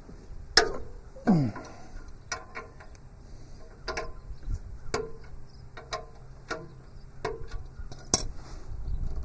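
Metal clinks of a hand wrench on the sub-frame bolts of a Kubota B7100 tractor as they are worked loose. There is one sharp clink about half a second in and a short falling creak just after, then lighter clicks roughly once a second.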